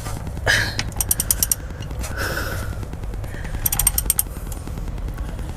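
Socket ratchet clicking in two short quick runs as a transmission plug is worked, over a steady low rumble.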